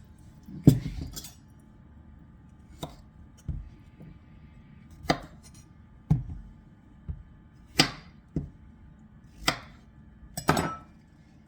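Paring knife cutting summer squash on a cutting board: about a dozen sharp chops at an uneven pace, each blade stroke knocking on the board.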